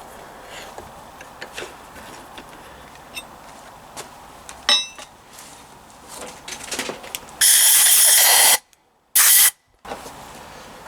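Small handling clicks and knocks, then two loud hissing blasts of spray, the first about a second long and the second about half a second, cleaning out the Triumph T140 crankshaft and its sludge-trap passages.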